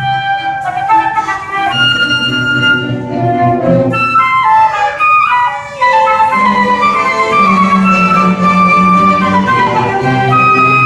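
Student orchestra playing: a held wind-instrument melody over steady low string notes, with a quick run of notes about halfway through.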